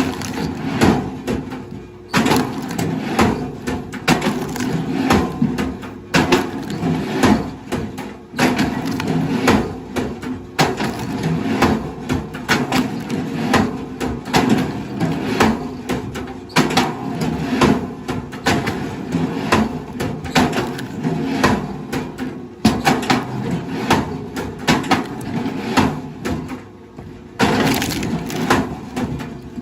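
Wood cracking and splintering in a dense, continuous crackle over a steady low hum, breaking off abruptly and starting again every few seconds.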